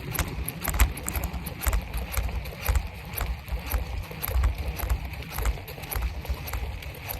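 Bicycle rolling on a nearly flat front tire: a knock about twice a second over a steady low rumble, the tire running so low that the rim can be felt.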